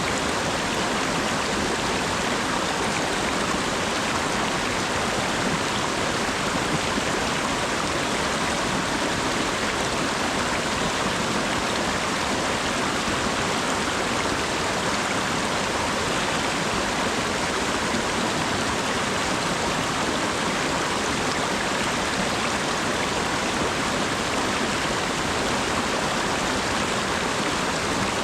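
Steady rainfall: an even, unbroken hiss of falling water, unchanging throughout.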